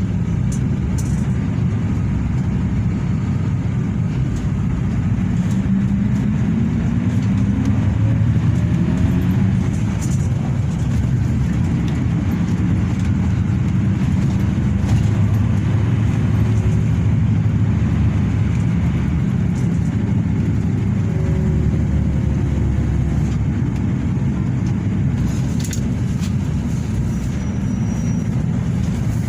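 Hino RK8 bus's diesel engine and road noise heard from inside the passenger cabin: a steady low rumble, with the engine note rising twice as the bus speeds up.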